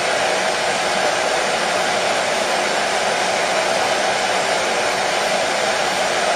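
Hair dryer running steadily, an even blowing hiss that does not change.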